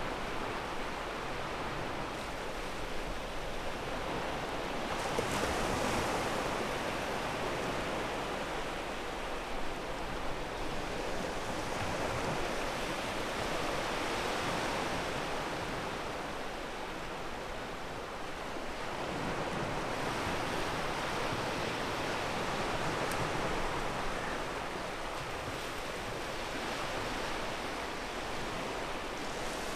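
Ocean surf on a pebble beach: a continuous rush of waves breaking and washing up, swelling louder every several seconds.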